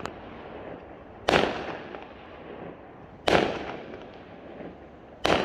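Fireworks exploding overhead: three loud bangs about two seconds apart, each fading away slowly afterwards.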